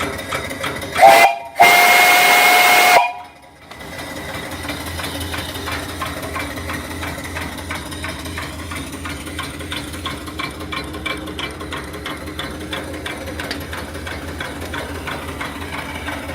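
Antique brass three-chime steam whistle on a small steam boiler blown twice, a short blast then one of about a second and a half, loud and steady with a hiss over it. After it the small steam engine and its feed pump run on with an even, rhythmic ticking beat.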